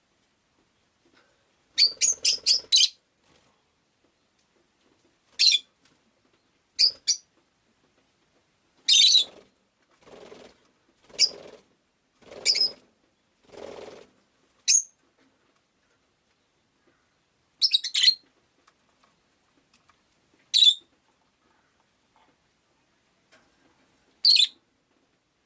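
Rosy-faced lovebird giving short, sharp, high chirps, singly and a few seconds apart, with a quick run of about four near the start. Several soft rustling noises in the middle.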